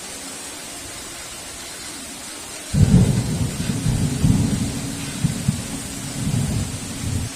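Steady hiss of heavy rain, with a loud thunderclap breaking in about a third of the way in and rumbling low in several swells for about four and a half seconds before cutting off abruptly.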